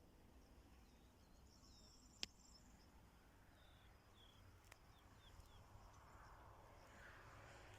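Quiet outdoor ambience with faint birds chirping: a string of short, high chirps. Two faint clicks about two and five seconds in.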